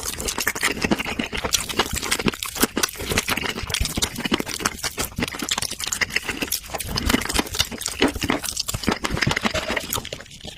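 Close-miked eating: continuous chewing with wet mouth clicks and crackling bites.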